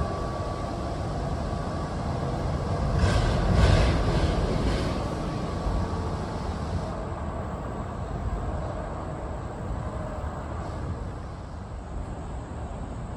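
NJ Transit commuter train rolling by with a steady low rumble. A few sharp clicks come about three to five seconds in, at the loudest point, and then the rumble slowly fades.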